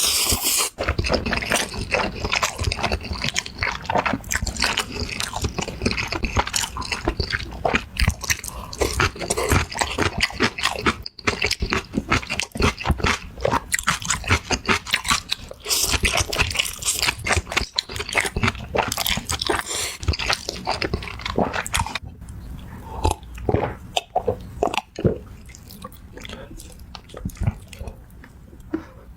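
Close-miked eating: dense, rapid crunching and chewing of crispy fried chicken. Past the middle it thins out to quieter, sparser chewing.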